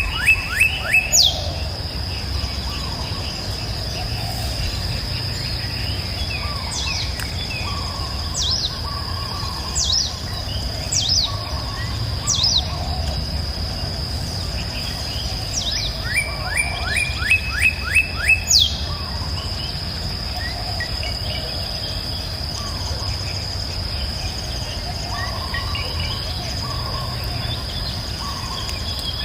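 Songbirds singing over a steady high-pitched insect buzz: a run of quick repeated notes near the start and again a little past halfway, with single sharp falling whistles every second or two between. A steady low rushing rumble, like a flowing river, lies underneath.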